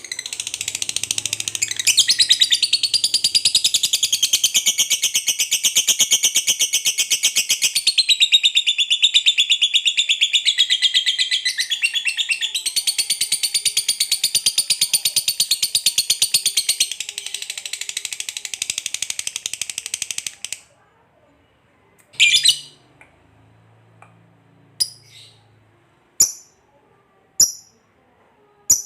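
Lovebird giving a long 'ngekek' chatter, a fast unbroken run of high, rattling notes lasting about twenty seconds before it stops abruptly. It is followed by about five single sharp chirps a second or so apart.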